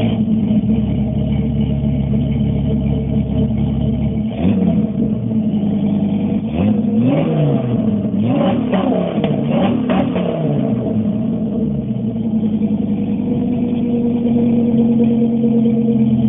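Dodge Ram SRT-10's 8.3-litre V10 through a SnakeBite side-exit exhaust, idling just after start-up. In the middle it is blipped several times, the pitch rising and falling quickly with each rev, then it settles back to a steady idle.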